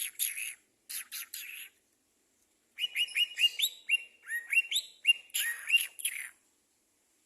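A small songbird singing: a few short chirps in the first two seconds, then a quick run of rising whistled notes lasting about three and a half seconds.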